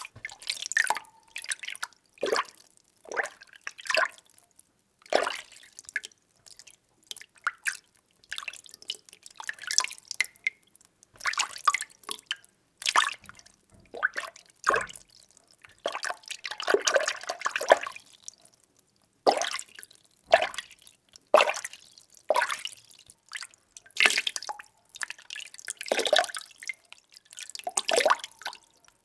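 Water being stirred in a container, sloshing and splashing in short irregular strokes about one a second, with a longer churning stretch just past halfway.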